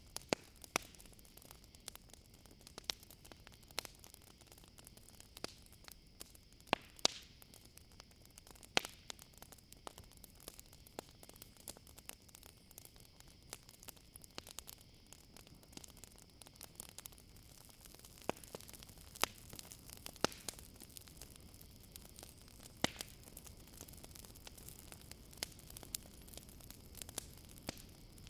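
Campfire crackling, with frequent irregular sharp pops and snaps, over a steady high chirring of crickets.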